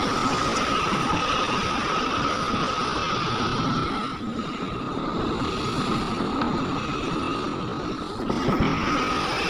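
Heavy diesel earthmoving machinery running steadily under load, a deep rumble with a steady high-pitched whine over it, easing off briefly twice.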